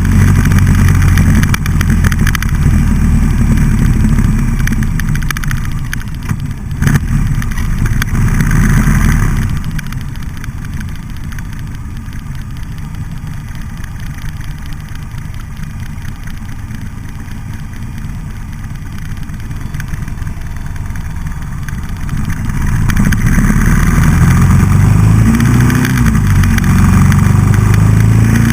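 Buell XB12SCG's air-cooled V-twin engine running under way: loud under throttle for the first third, falling much quieter for about a dozen seconds as the throttle is eased off, then pulling hard again with the pitch rising near the end.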